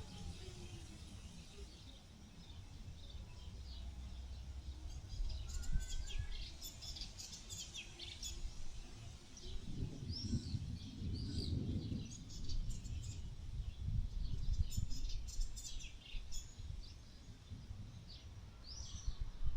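Small birds chirping, many short high calls in quick bunches, over a steady low rumble that swells about ten seconds in.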